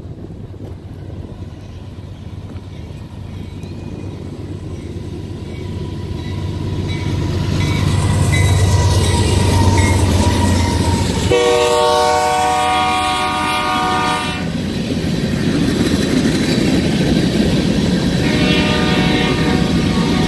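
A BNSF GE Dash 9-44CW freight locomotive approaches and passes, its diesel rumble growing louder over the first several seconds. The air horn sounds a blast of about three seconds just after eleven seconds in, and again more faintly near the end. Covered hopper cars roll past with steady wheel noise.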